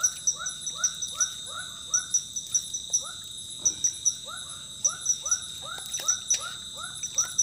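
A frog calling in quick runs of short, falling chirps, about three or four a second, with a brief break partway through. A steady high insect drone and ticking carry on underneath.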